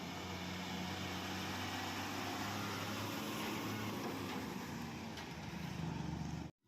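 Tata 3118 twelve-tyre truck's diesel engine running steadily with road and tyre noise as the truck moves; the sound cuts off suddenly near the end.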